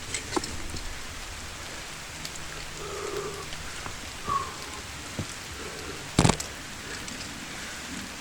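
Steady rain falling, with scattered drop ticks. One sharp knock about six seconds in.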